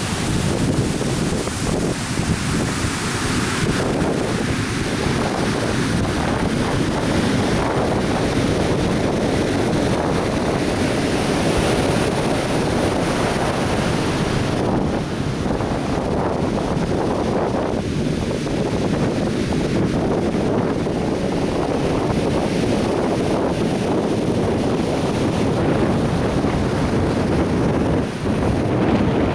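Atlantic Ocean surf breaking on a beach in a steady, continuous wash of waves, with wind buffeting the microphone.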